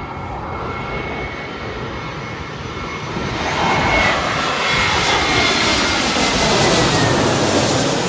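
Frontier Airlines jet airliner on landing approach flying low overhead. Its engine whine and rush grow louder about three seconds in and stay loud through the rest, with the pitch sliding down as it passes over.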